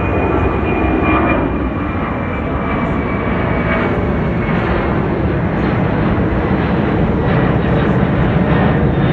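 Jet airliner passing close by, its engines giving a loud, steady rushing noise with a thin high whine that grows slightly louder.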